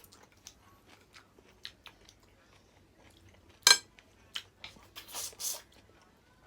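Close-up eating sounds during a seafood meal: chewing with scattered small clicks, likely crab shell and utensils. A single loud, sharp crack comes a little past halfway, then two short noisy bursts about a second later.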